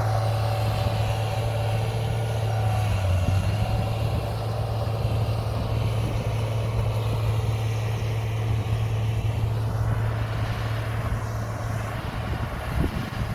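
Heavy diesel earthmoving machinery running steadily under load, a deep even engine drone with a few short knocks near the end.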